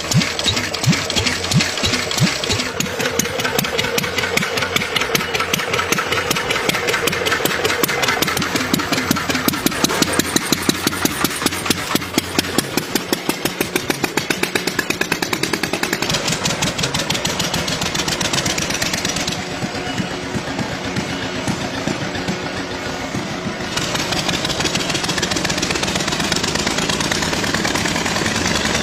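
Motorcycle engine running with rapid, even firing pulses, changing character abruptly twice in the second half.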